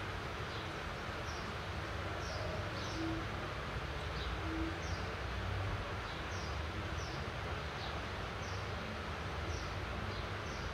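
Steady hiss of rain falling over town rooftops, with a low rumble underneath. A bird repeats short, high, falling chirps about once or twice a second throughout.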